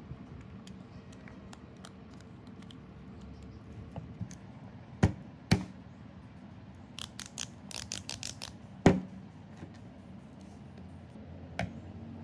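Handling of small tool parts: two sharp knocks about five seconds in, a quick run of light clicks a little later, and another loud knock near nine seconds, over a low steady background.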